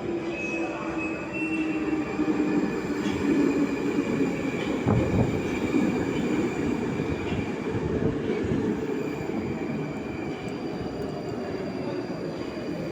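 Moscow metro train of the 81-775/776/777 Moskva-2020 type running through the station, with its traction-drive tones falling slightly in pitch over the first few seconds over steady wheel-and-rail rumble. It is loudest about five seconds in.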